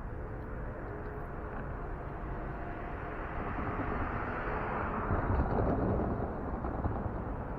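Santa Fe 2926, a 4-8-4 steam locomotive, moving, heard as a steady rumble and hiss that swells about three seconds in and eases near the end.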